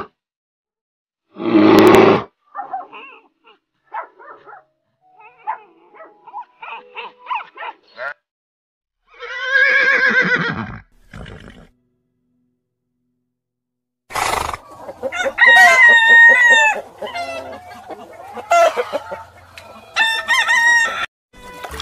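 Chickens clucking and a rooster crowing. A short loud harsh call comes about two seconds in, then scattered clucks, a single crow about ten seconds in, a pause of a couple of seconds, and a run of loud calls over the last seven seconds.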